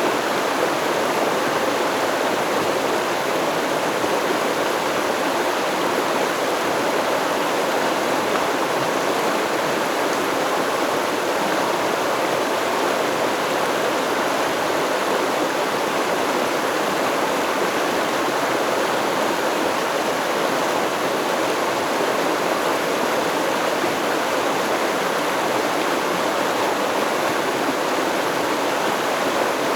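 Stream water flowing steadily, an even rushing babble with no breaks or changes.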